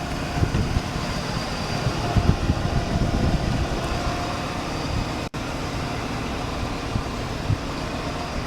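1983 Buick Riviera's 5.0-litre V8 idling steadily, with the sound cutting out for an instant about five seconds in.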